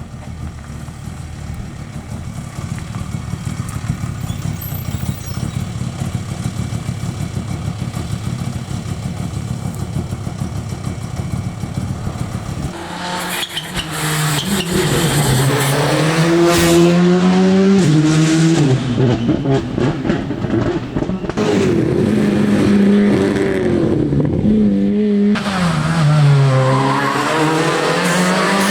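Rally car engine: a low rumble grows steadily louder, then about halfway through the engine comes in loud and close, its note repeatedly rising and dropping as the driver revs hard and changes gear.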